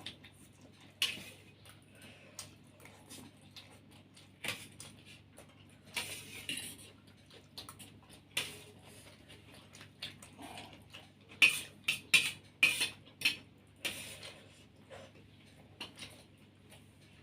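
Cutlery clinking and scraping against plates while eating, in irregular taps, with a quick run of several louder clinks about two-thirds of the way through.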